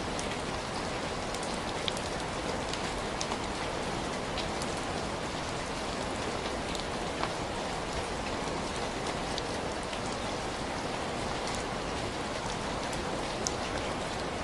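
Steady, even rain falling, with scattered small sharp ticks through it.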